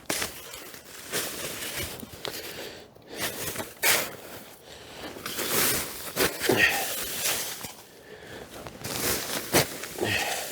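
Irregular rustling and crunching of someone handling gear and moving about in snow while setting up a snow-grave shelter.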